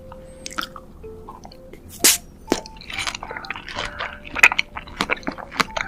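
Close-miked eating sounds: wet mouth clicks, smacks and chewing, with one loud crackling burst about two seconds in and busier chewing from about three seconds on. Soft background music plays underneath.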